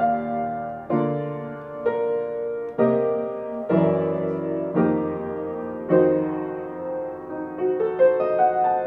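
Solo piano playing a slow introduction, chords struck about once a second and left to ring, with a few higher notes near the end.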